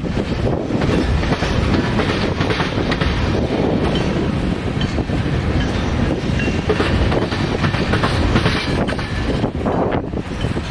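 Mixed freight train rolling slowly past at low speed: a steady rumble of wheels on rail, with scattered knocks and clanks.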